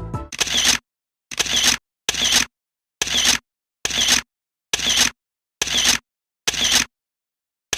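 A camera shutter sound effect repeated nine times, a little under once a second, each click identical, with dead silence between.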